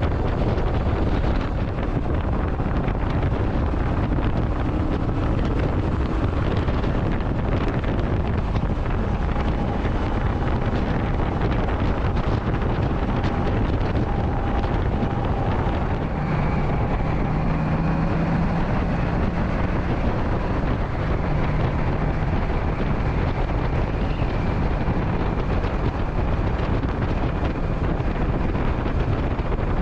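Steady wind buffeting the microphone of a moving motorcycle, with road and engine noise underneath. About halfway through, a faint steady hum comes through for several seconds.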